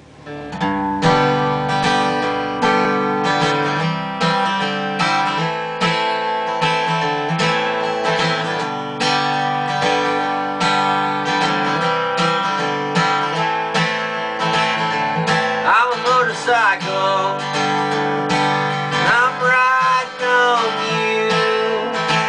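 Acoustic guitar strummed in a steady rhythm, playing an instrumental song intro that starts about half a second in. Past the middle a wavering higher melodic line comes in briefly, twice.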